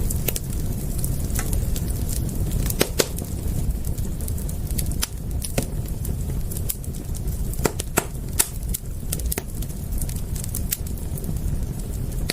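Wood fire crackling: irregular sharp pops and snaps over a steady low rumble of flame, with a few louder pops about three seconds in and around eight seconds in.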